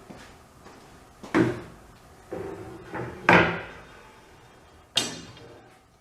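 A small wooden cabinet door, likely the keybox's, being handled and knocked shut several times, the loudest knock a little past the middle, then a sharp click with a brief metallic ring near the end, like a latch or hinge catching.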